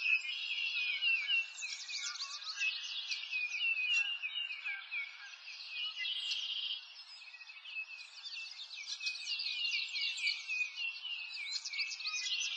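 Birds chirping: many quick, overlapping chirps, with a short trill about six seconds in.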